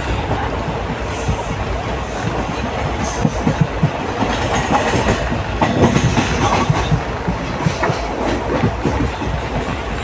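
Moving passenger train running on the rails: a steady rumble with the wheels clattering over rail joints in frequent short knocks.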